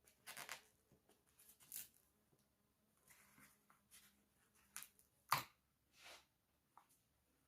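Faint, scattered rustling and small clicks of old, brittle craft feathers being pulled off a picture frame, with one sharper click about five seconds in.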